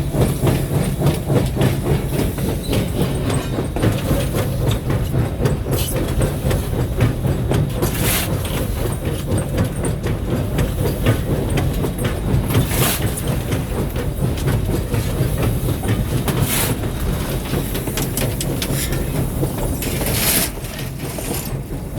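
Steam locomotive heard from the cab while running: a steady low rumble with the clatter of wheels on rail. Short hisses come every few seconds.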